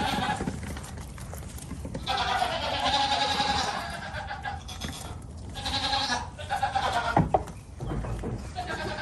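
Goats bleating: several drawn-out, wavering calls one after another, the longest starting about two seconds in.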